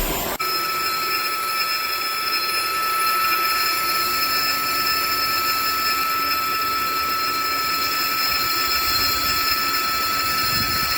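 Dreame H12S wet-dry vacuum cleaner running with a steady motor whine and rush of air. The sound changes abruptly about half a second in, then holds steady.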